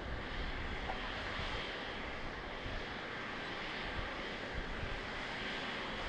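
Steady, even engine noise from a Boeing 777-300ER's GE90 jet engines at a distance, with wind buffeting the microphone.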